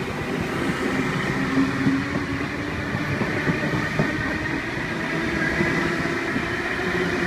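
NSW TrainLink V set double-deck electric train pulling out of the platform and running past close by. Its wheels make a steady, loud rumble on the rails, with a steady hum over it.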